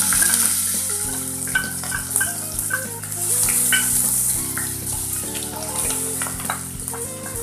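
Chopped garlic and ginger sizzling in hot oil as they are tipped into the pan and stirred with a wooden spatula, with short scrapes of the spatula against the pan.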